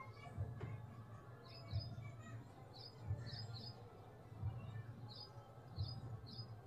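Faint bird chirps, short high calls in small groups, over a low steady hum with a soft low thud recurring about every second and a half.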